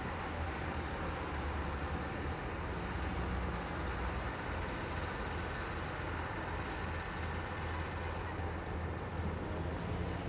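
Heavy diesel engine running steadily with a low hum, from the earthmoving machinery or tipper truck at work.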